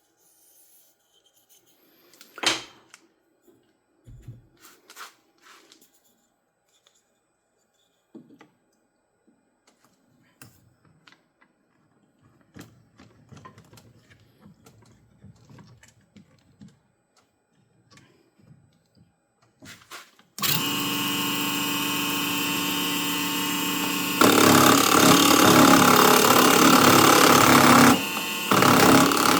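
Scattered handling clicks and one sharp knock, then about two-thirds of the way through a small benchtop wood lathe's motor switches on and runs with a steady whine. A few seconds later it gets much louder, then drops back briefly near the end.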